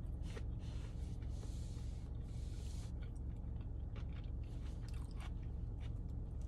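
Close-miked eating sounds: chewing and biting into fast food, with small crunches and wet mouth clicks, over a steady low hum.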